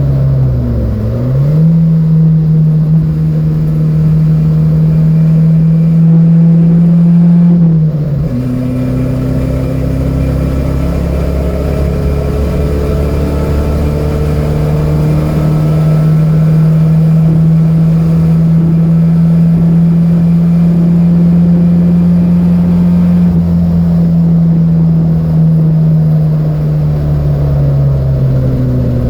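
Datsun B210's four-cylinder engine running hard at steady high revs. A sudden drop in pitch about eight seconds in marks an upshift, and the pitch then climbs slowly, holds, and falls off gradually near the end.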